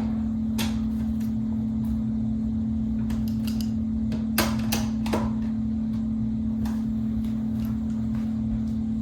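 A few sharp clicks and knocks from the grill and screws being handled and fitted while reassembling a box fan, the loudest about four and a half seconds in, over a steady low hum.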